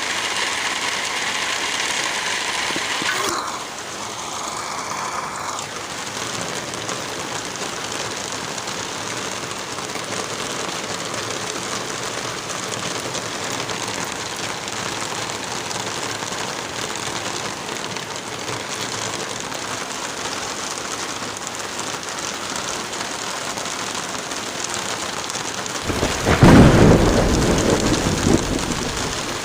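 Steady light rain with wind, an even hiss, whose texture shifts abruptly about three seconds in. Near the end a low roll of thunder swells up loudly and fades away.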